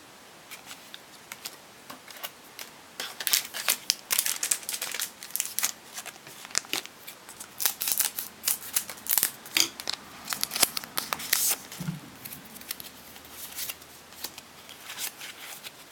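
A foil Pokémon booster pack being torn open and handled, in irregular bursts of crinkling, tearing and crackling, with the cards inside being slid out and handled.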